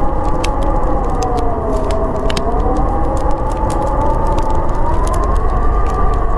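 Howling blizzard wind, a whistling tone slowly rising and falling in pitch over a steady low rumble, with a wood fire crackling in sharp pops throughout.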